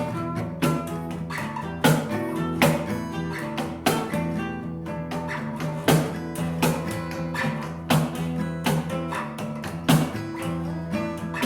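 Rock band playing an instrumental: guitar over sustained bass notes, with a strong accent about every two seconds.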